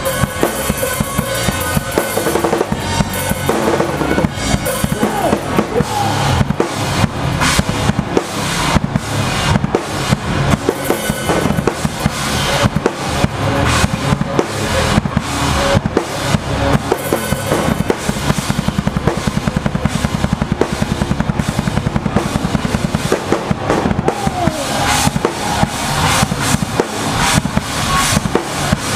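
Pop punk band playing live, with the drum kit loudest: a steady, fast beat of kick drum and snare with cymbals, and the rest of the band underneath.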